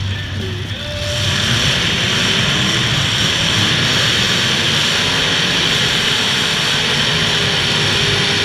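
Demolition derby cars' engines running hard at high revs. The loud, steady engine noise swells about a second in and then holds.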